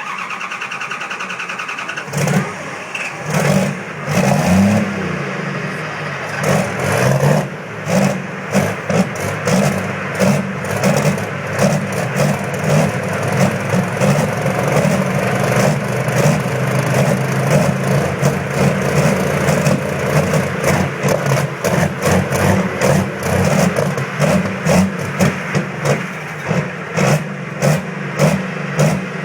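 A cold diesel engine being cranked by its starter for about two seconds, then catching and running with a knocking clatter. Its speed surges up and down again and again, most often near the end.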